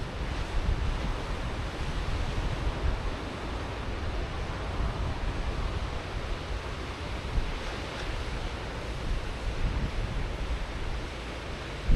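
Ocean surf breaking and washing on a sandy beach, a continuous roar that swells as waves come in, about eight seconds in most clearly, with wind rumbling on the microphone.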